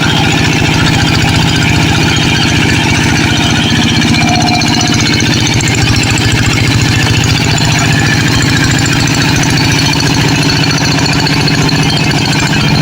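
Tractor engine running steadily, with a fast, even pulsing rhythm.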